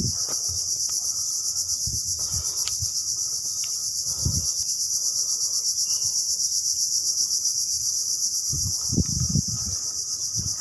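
Loud, steady high-pitched insect chorus with a fast even pulse. A few low thumps come through under it, near the middle and near the end.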